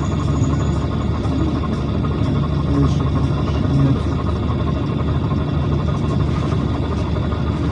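Steady engine and road noise inside a PAZ-422320-04 Citymax 9 city bus on the move.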